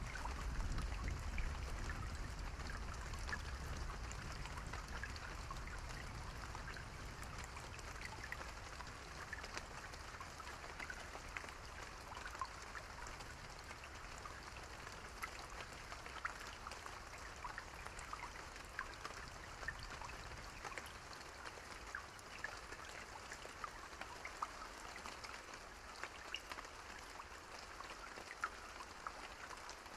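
Steady rain with many small drops pattering. A low rumble of distant thunder at the start dies away over the first several seconds.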